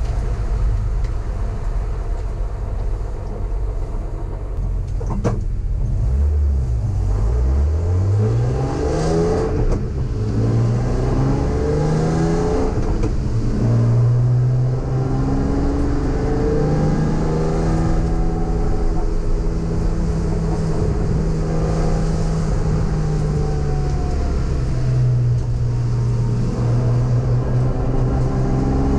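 BMW E46 M3's S54 straight-six engine, heard from inside the cabin, running low at first, then revving up from about six seconds in and rising through the gears, its pitch climbing and dropping back at each upshift.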